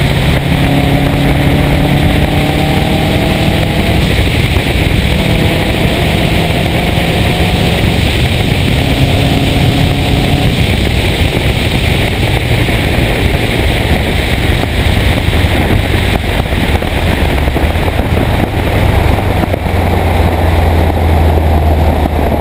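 Turbocharged 2.5-litre flat-four of a 2006 Subaru Impreza WRX STI through a Supersprint exhaust, accelerating hard: three rising pulls, each cut off by a gear change. After about ten seconds the engine note gives way to a steady rush of wind and road noise, with a deeper drone in the last few seconds.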